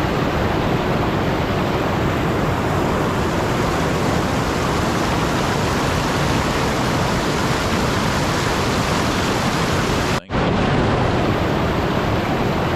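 A steady, even rushing noise with no tones or rhythm in it. It cuts out for a split second about ten seconds in.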